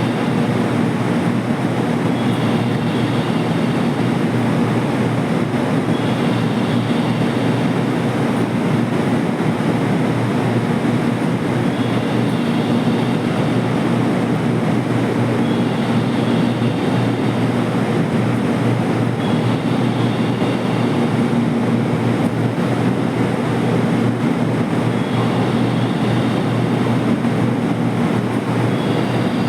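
JR Kyushu 787 series electric train running, a steady rumble of wheels on rail heard from inside the car, with faint short high tones every few seconds.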